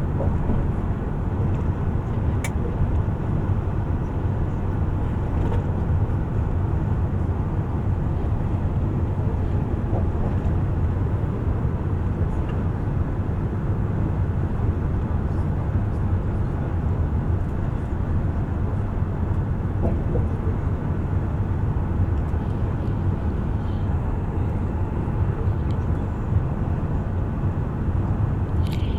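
Steady rumble of a bus in motion, heard from inside the cabin: engine and tyre noise, with a couple of faint clicks.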